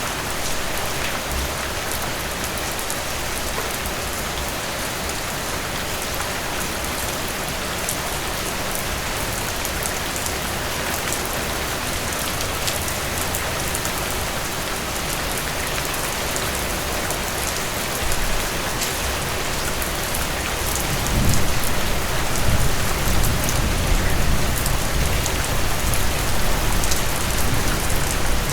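Steady rain falling on a surface, an even hiss with fine patter of individual drops. About three-quarters of the way through, a deeper low rumble swells in underneath and the sound grows louder.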